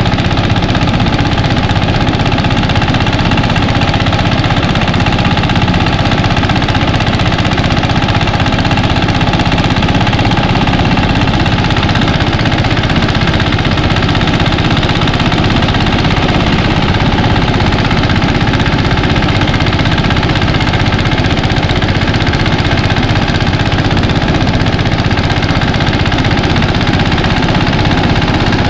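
Mini rice thresher running steadily and loudly, its engine holding an even, fast-pulsing note throughout.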